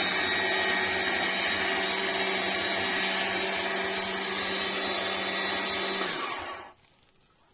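Electric cold-press (slow masticating) juicer motor running with a steady hum, then switched off and winding down about six seconds in.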